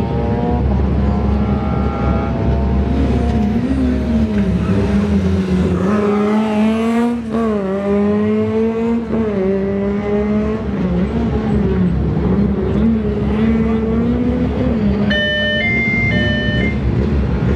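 Rally car engine running hard, its pitch rising and falling through gear changes as the car passes by about seven seconds in. Near the end, a brief horn-like tone alternating between two notes sounds over the engines.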